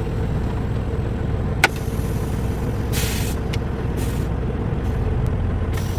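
Semi-truck engine running with a steady low rumble, heard from inside the cab. There is a sharp click about a second and a half in, then short hisses of air a few times in the second half.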